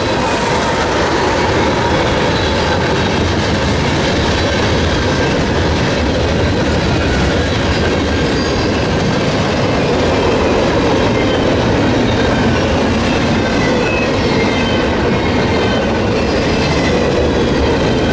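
Freight train cars rolling past: a steady, loud rumble of steel wheels on the rails, with faint brief squeals of wheels against the rail.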